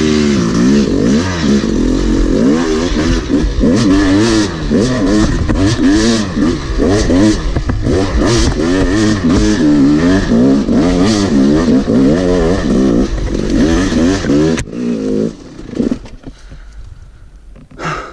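Yamaha YZ250 two-stroke dirt bike engine being revved up and down over and over as it is ridden over loose trail ground. About fifteen seconds in the engine cuts off suddenly and the sound drops away.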